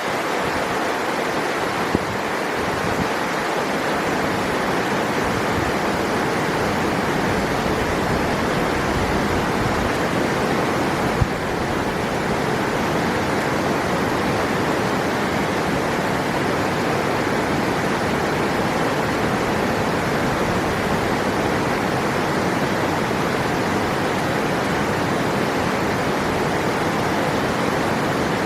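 River water rushing in a steady, dense roar of flowing water, with two brief clicks about two seconds and eleven seconds in.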